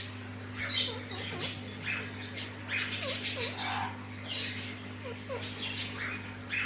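Alexandrine parrots making soft, scattered chirps and short chattering calls, some with small falling notes, over a steady low hum.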